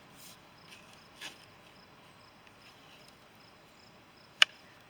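Faint insect chirping, a high tick about twice a second, with two brief scrapes in the soil in the first second and a half. A single sharp click or knock near the end is the loudest sound.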